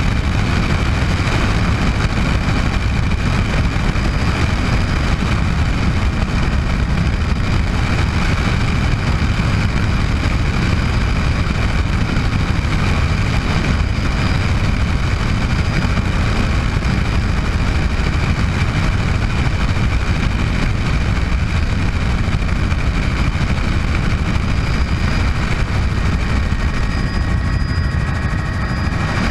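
Bell 206 JetRanger helicopter running steadily: a loud, constant rotor and engine rumble with a steady high turbine whine.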